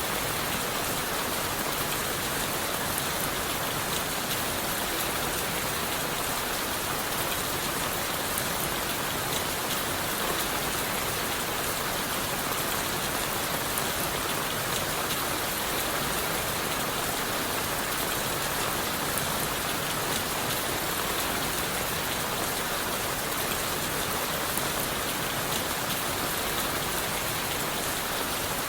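Steady rain falling on leaves, wood and the forest floor, with fine drop ticks over an even hiss.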